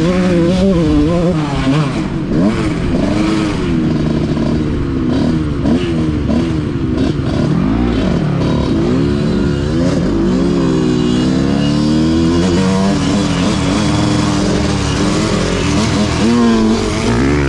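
Motocross dirt bike engine being ridden hard, revving up and dropping back again and again as the rider works through the gears.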